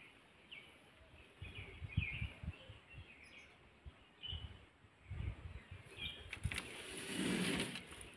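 Small birds chirping now and then, short high calls, over low thumps and rustling noise, with a louder rush of rustling near the end.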